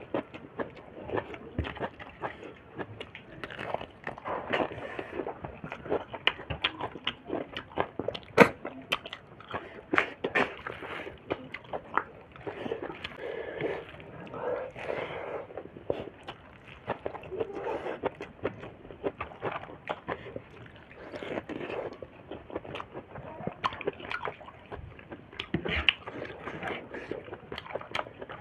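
Close-up eating sounds of snail and pork meat: chewing with wet mouth noises and frequent sharp clicks.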